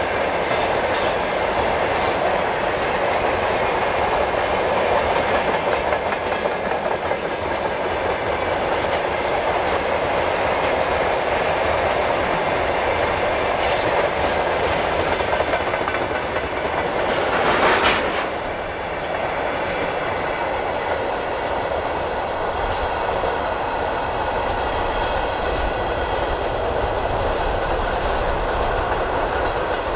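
Freight train of tank cars rolling past with a steady clickety-clack of wheels over the rail joints and a rumble of running gear. There is a brief louder rush about halfway through, then the train moves off into the distance.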